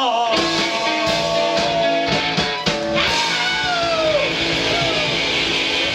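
Live rock band playing: a held note at the start, drum hits through the first half, then electric guitar notes bending and sliding downward.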